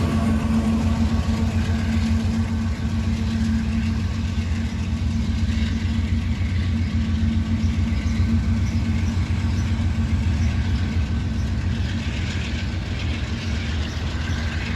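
Diesel locomotive working as a distributed-power unit on a freight train, its engine running with a steady drone that weakens after about four seconds, while the rushing rumble of the rolling train grows stronger near the end.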